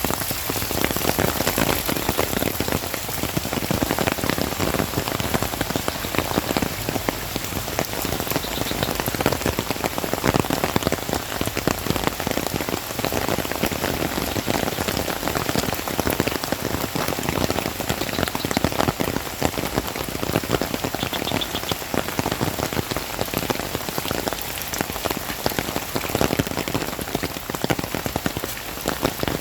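Heavy rain falling steadily, a dense patter of countless drops striking surfaces close by.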